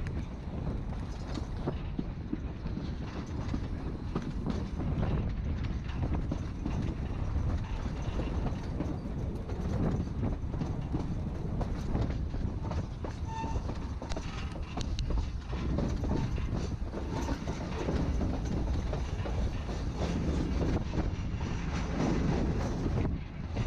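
Narrow-gauge passenger train rolling along the track: a steady low rumble with an irregular clatter of wheels over the rail joints.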